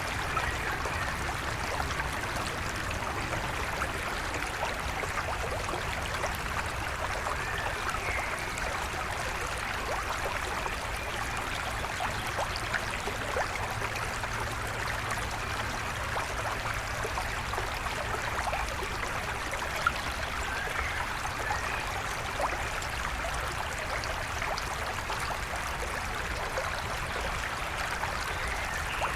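River water flowing steadily, with a few faint bird calls now and then.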